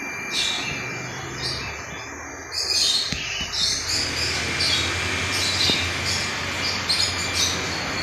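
Many small caged birds chirping in short high bursts, several times a second, growing louder and busier about two and a half seconds in.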